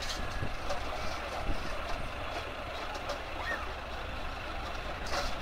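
Heavy diesel machinery engine running steadily, with scattered small knocks and a short sharp noise near the end.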